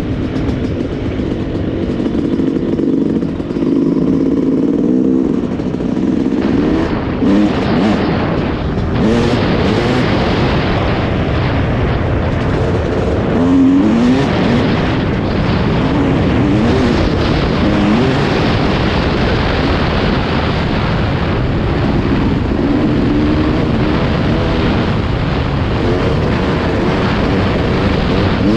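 Yamaha YZ250 two-stroke dirt bike engine under way on a trail: holding a fairly steady pitch for the first few seconds, then from about seven seconds in revving up and down again and again as the throttle is worked.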